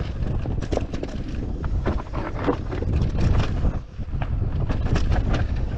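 Intense Tazer Pro electric mountain bike riding down a rough trail: irregular knocks and clatters from the bike and tyres over rocks and roots, over heavy wind buffeting on the microphone.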